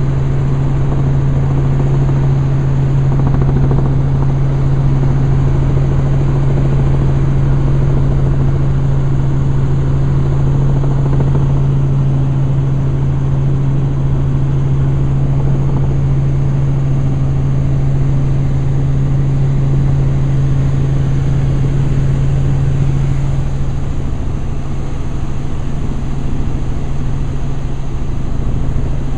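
Helicopter in flight, heard from on board: a loud, steady engine and rotor drone with a strong low hum that eases a little about 23 seconds in.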